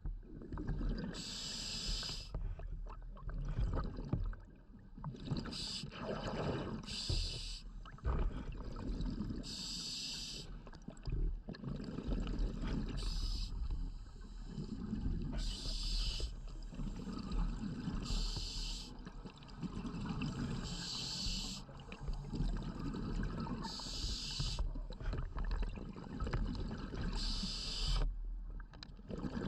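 Scuba diver breathing through a regulator underwater: a burst of exhaled bubbles about every three seconds, with the lower rush of breathing between.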